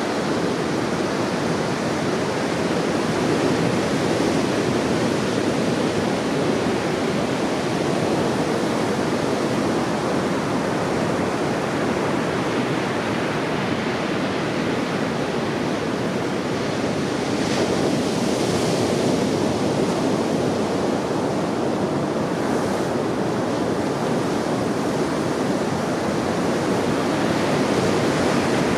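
Heavy surf raised by a typhoon swell, a steady rush of breaking waves on a beach that swells slightly louder now and then.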